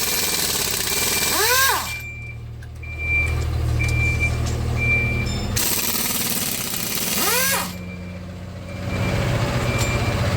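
Three loud bursts of machine noise, a hiss over a low hum, each starting and stopping abruptly, with a short high beep repeating in the quieter gaps.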